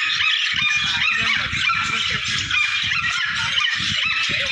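A flock of small caged birds chirping and chattering without a break, many calls overlapping, with short low-pitched pulses repeating underneath.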